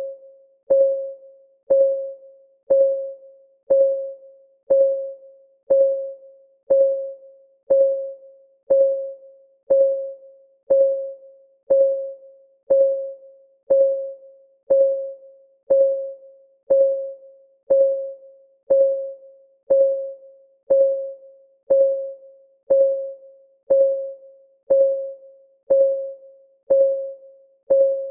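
Countdown timer's clock-ticking sound: a short, pitched tick about once a second, each one ringing briefly and dying away, evenly spaced.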